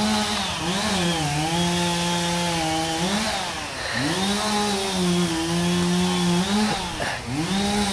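Two-stroke chainsaw revving in repeated bursts. Its note climbs to a steady high pitch, holds for one to two seconds, then falls back, several times over.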